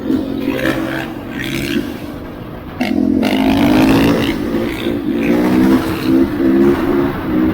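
Dirt bike engine running with a wavering pitch, then opening up louder about three seconds in.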